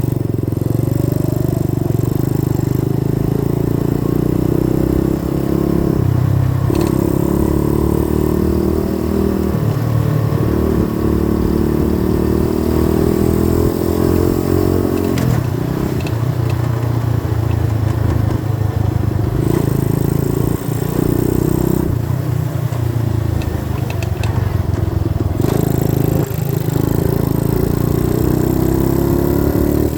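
Small single-cylinder 90cc dirt bike engine running under way. Its note climbs, breaks off and picks up again several times.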